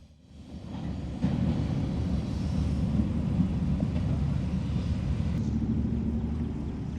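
Maintenance-of-way truck hauling a flat car on the rails, its engine and running gear making a steady low rumble that fades in and grows louder about a second in.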